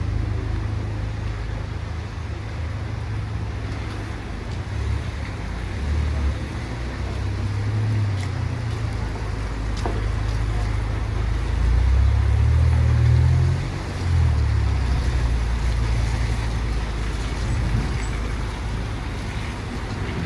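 City street traffic rumbling past, with a deep rumble that rises and falls, swelling loudest about twelve seconds in and dropping away sharply near fourteen seconds. Picked up on a smartphone's built-in microphone.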